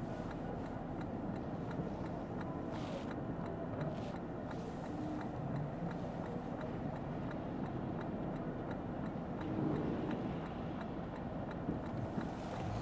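Steady road and tyre noise inside a Lexus ES 350 sedan's cabin on a wet road, with the turn signal ticking evenly at about three ticks a second.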